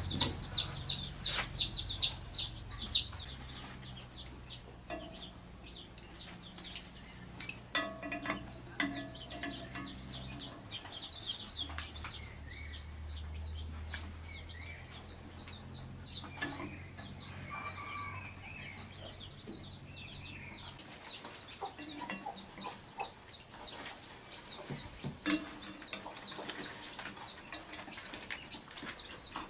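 Chickens calling, with a rapid run of high peeping chirps, loudest in the first few seconds and fainter after that. A low steady hum underneath stops about two-thirds of the way in.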